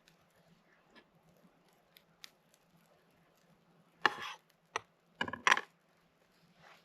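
A knife cutting food on a board: a few faint taps, then a short cluster of sharp cuts and knocks about four to five and a half seconds in.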